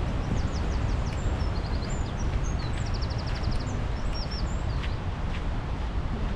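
Steady rush of a waterfall, mixed with wind on the microphone, with a small songbird singing high, quick chirps and a rapid trill over it through the middle.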